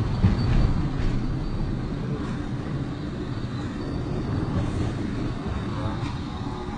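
A train running along the track: a steady low rumble with a few faint clicks.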